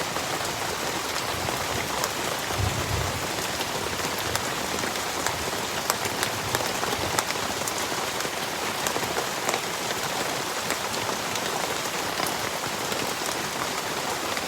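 Heavy tropical rain pouring steadily, with many individual drops clicking sharply through the downpour. A short low rumble comes about three seconds in.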